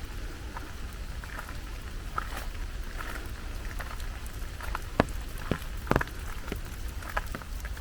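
Rain falling, with scattered drops ticking sharply close by and two louder taps in the second half, over a steady low rumble.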